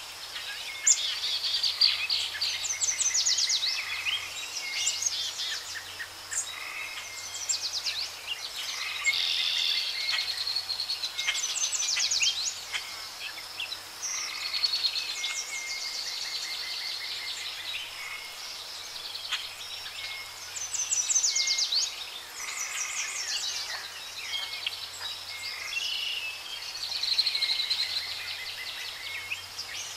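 Several birds chirping and trilling, their calls overlapping continuously in a busy outdoor chorus, over a faint low hum.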